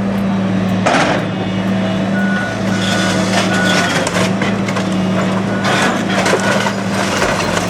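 Heavy demolition machinery's engine running steadily, with a reversing alarm beeping on and off and crackling, crunching debris.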